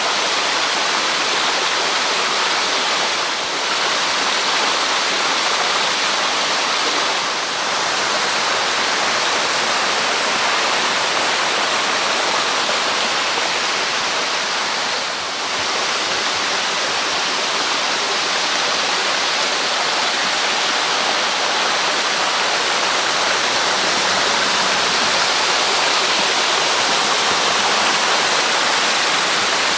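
Waterfall with a 6 m drop: a loud, steady rush of falling water.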